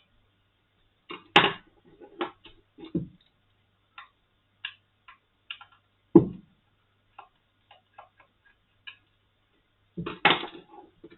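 Irregular clicks and taps of a small screwdriver working tiny screws and handling the moulded case of a Brüel & Kjær 2250 sound level meter during disassembly. Heavier knocks come about a second in, about six seconds in and near the end.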